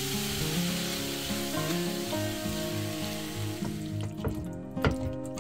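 Sliced peppers, carrot and onion sizzling in oil in a frying pan as yogurt goes in; the sizzle fades out about four seconds in. A few knocks of a spatula stirring in the pan follow near the end, over background music.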